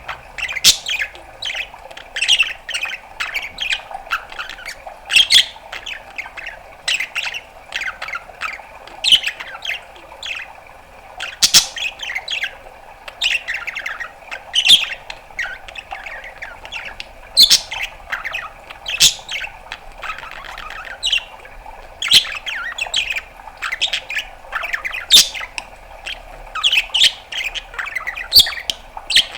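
A male budgerigar chattering: a quick run of chirps, clicks, squawks and warbles, several a second, with no break.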